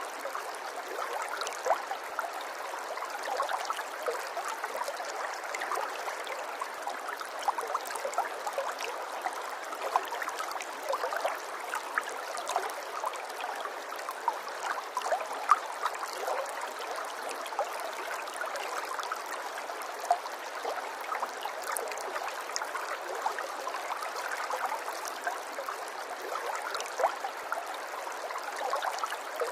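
Flowing water trickling and gurgling steadily, with many small splashes and drips.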